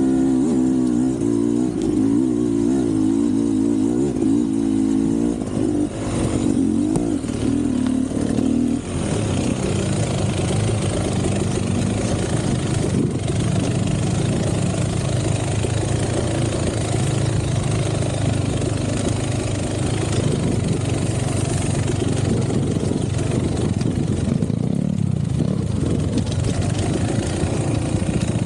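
Two-stroke Beta 300 enduro motorcycle engine being ridden, its pitch rising and falling with the throttle for the first several seconds, then a rougher, steadier run from about nine seconds in.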